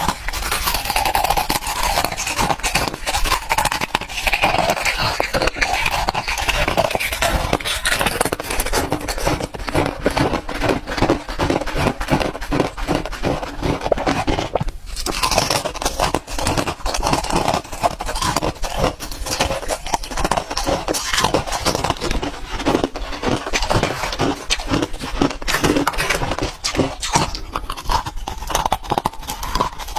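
Ice cubes being bitten and crunched between the teeth: a dense, continuous run of crisp cracks and crunches, with a short break about halfway through.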